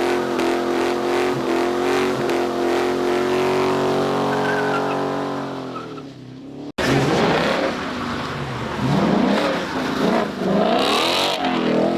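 A car drifting: the engine is held at high, steady revs over tyre noise, fading about six seconds in. After a sudden cut, the revs rise and fall with tyre squeal.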